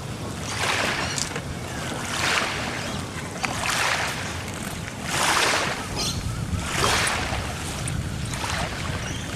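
Water swishing in regular surges about every second and a half, with wind on the microphone.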